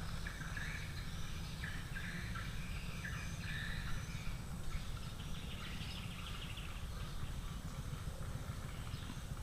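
Wild birds chirping and calling in short, scattered notes, over a steady low rumble.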